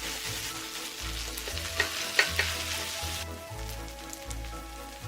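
Fried rice sizzling in a hot pan, probably with butter, with sharp clicks and scrapes of a utensil stirring it now and then.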